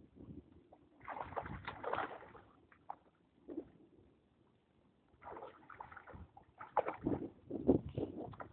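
A dog splashing and sloshing through shallow stream water, in two spells: one about a second in and a longer one starting about five seconds in.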